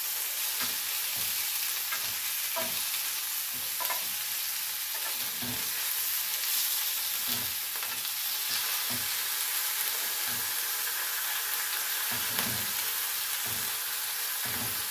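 Fennel strips sizzling in olive oil on a ridged grill pan, a steady hiss broken by irregular short taps and clacks as tongs turn the pieces over.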